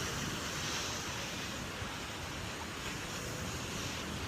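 Steady wash of ocean surf breaking on a sandy beach, with wind buffeting the microphone.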